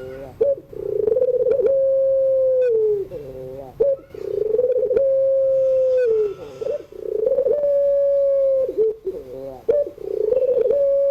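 Puter pelung, a long-voiced Barbary dove, cooing: a long held coo that dips at the end, alternating with short rolling, quavering notes. The phrase repeats about every three seconds.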